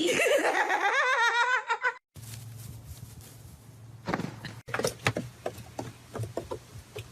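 A loud wavering cry whose pitch wobbles rapidly up and down for about two seconds, from an animal or a laughing person, then stops abruptly. After that come scattered light knocks and taps over a steady low hum.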